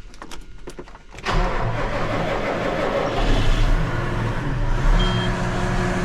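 John Deere 6215R tractor's six-cylinder diesel engine cranking for about a second on its freshly changed and primed fuel filters. It then catches and runs steadily. A short high beep sounds near the end.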